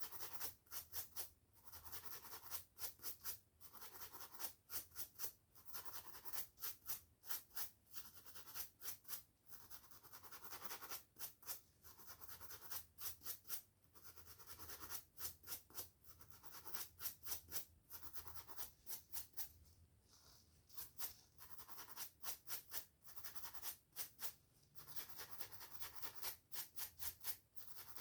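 Quick, scratchy strokes through hair and over a scalp, in runs of several strokes a second with short pauses between.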